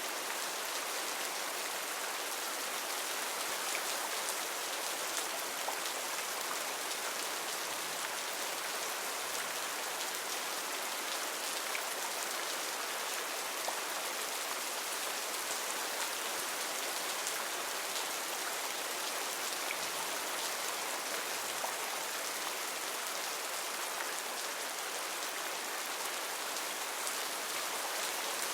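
Heavy rain falling steadily, an even hiss of many small drop impacts with no let-up.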